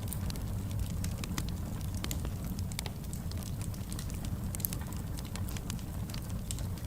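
Fireplace fire crackling: frequent sharp pops and snaps at irregular intervals over a steady low rumble of burning.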